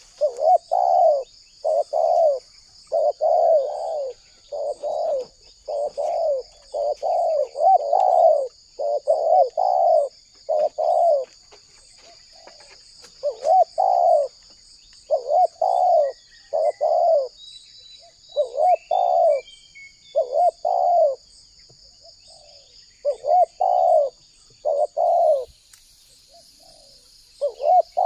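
Spotted dove cooing: a long run of short repeated coos in quick phrases, broken by a few brief pauses, over a steady faint high hiss.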